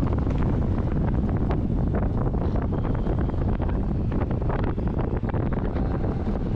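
Wind rushing over a GoPro Hero 8's microphone on a moving bicycle, a steady low buffeting with frequent small knocks and rattles running through it.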